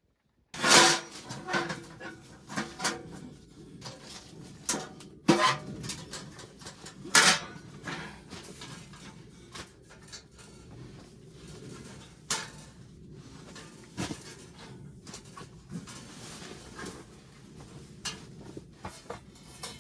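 Irregular knocks, clatter and clinks of hard objects being handled and set down, loudest about a second in and again around five and seven seconds in.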